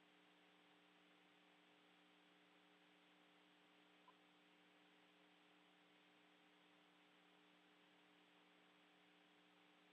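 Near silence: the faint steady hiss and hum of an open space-to-ground radio channel, with one tiny click about four seconds in.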